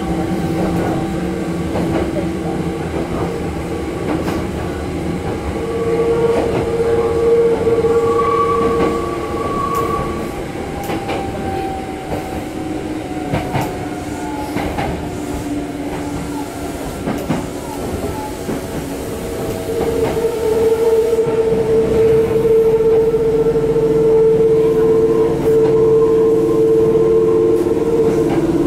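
Ex-Hankyu Nose Electric Railway train running, heard from inside the car: wheels clicking over rail joints over a steady rumble, with a steady whine from about six seconds in to ten, and again from about two-thirds of the way through.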